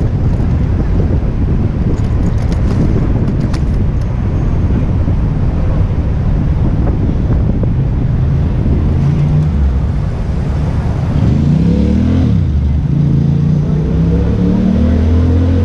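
Wind rushing over the microphone of a camera on a moving bicycle, amid city traffic. In the second half, nearby motor vehicle engines rise and fall in pitch as they pull away.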